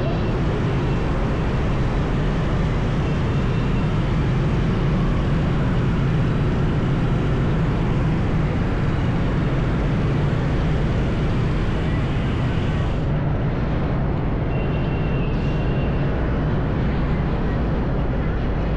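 Motorbike riding along a highway: a steady low rumble of its engine mixed with road noise and surrounding traffic.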